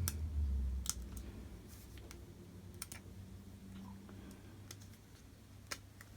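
Scattered small, sharp clicks and light taps, about half a dozen, from small parts and tools being handled on a workbench, over a faint low hum.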